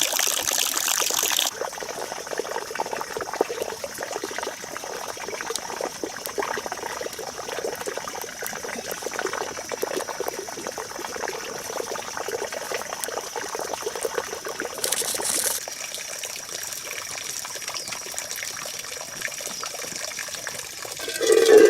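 Water trickling and pouring, louder for the first second and a half, with a faint steady high tone running underneath and a brief louder splash about fifteen seconds in.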